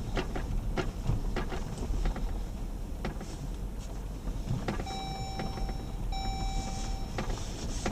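A run of clicks and knocks as gear is handled and stowed in the Jeep Grand Cherokee, over a low steady rumble, then two steady electronic chime tones of about a second each with a short break between them, typical of the vehicle's warning chime.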